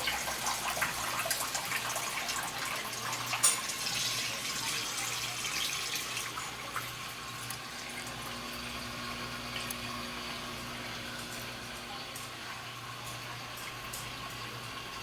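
GE Ecoperformance 15 kg washing machine pumping out the last of its wash water before the spin. Water rushing and gurgling fades through the first half, leaving a steady low hum.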